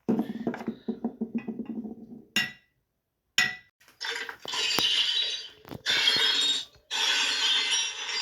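A string of stock cartoon sound effects: a fast rattling clatter, two sharp clicks, then several crashes of about a second each that sound like glass shattering.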